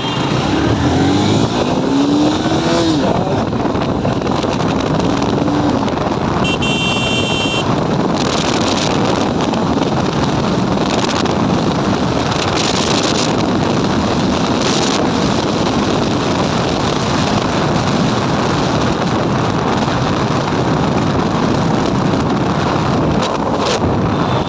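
Motorcycle pulling away and accelerating, its engine rising in pitch twice in the first few seconds, then riding on steadily under heavy wind rush on the microphone. A vehicle horn sounds briefly about seven seconds in.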